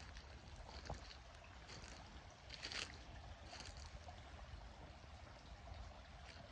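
Small forest stream trickling and splashing faintly, the water surging a little louder a few times.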